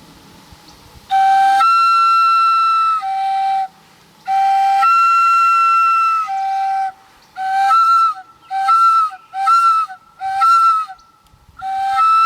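Mouth-blown Common Loon call, a hand-held wind call with no moving parts, imitating a common loon. Long wails jump from a low tone to a high tone and drop back, then a run of short, quick low-high notes is broken up by the hand over the call, like the loon's yodel.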